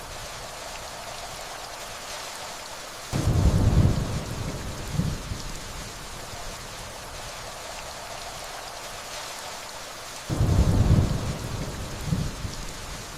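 Steady rainfall with two rolls of thunder, one about three seconds in and another about ten seconds in. Each comes on suddenly, rumbles low for about a second, then fades with a smaller second rumble.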